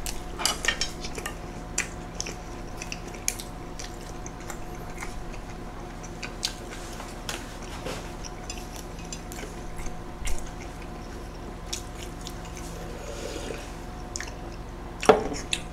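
Close-miked chewing and biting into a large burger: soft wet mouth sounds and scattered small clicks, over a steady faint hum.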